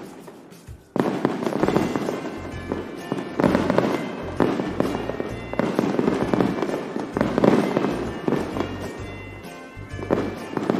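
Aerial fireworks bursting, a loud bang every second or two, each trailing off, the loudest a little past the middle. Music plays underneath.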